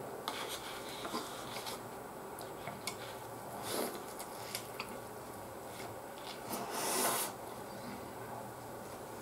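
Close-miked chewing of soft white sliced bread: wet mouth clicks and soft rasping as it is bitten and worked. A louder rustling swell comes about four seconds in and a longer one about seven seconds in.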